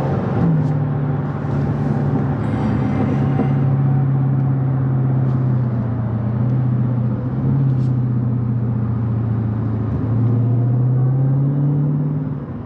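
Car engine running while driving in slow traffic, a steady hum whose pitch drops a little just after the start, sags through the middle and rises again about ten seconds in.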